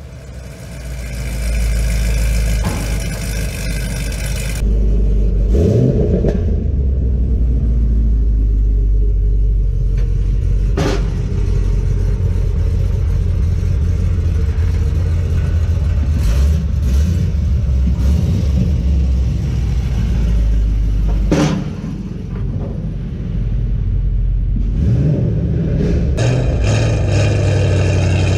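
2014 Camaro ZL1's supercharged V8 running with a steady low rumble. The sound changes abruptly a few times, with a couple of sharp clicks.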